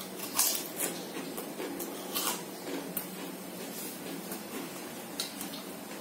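Close-up sounds of a person eating by hand: wet chewing and lip smacks, in irregular short clicks, over a steady low hum.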